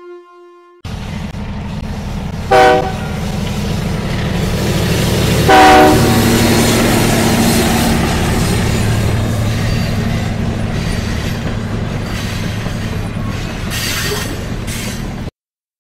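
A train running on the rails with a steady low rumble and clatter, sounding two short horn blasts about three seconds apart, the second one the loudest. The sound cuts off abruptly near the end.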